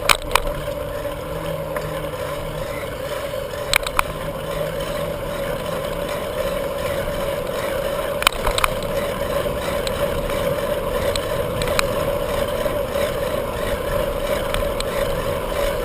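Steady rush of wind and tyre noise from a moving bicycle, with a held hum running through it, broken by a few sharp clicks and knocks, the loudest about eight seconds in.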